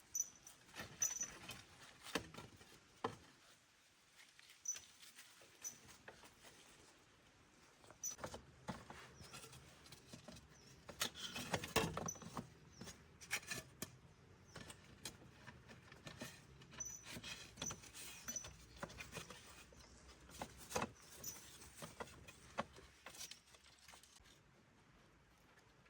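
Irregular light clicks, taps and rustling handling noises, busiest about halfway through, with a few faint high chirps.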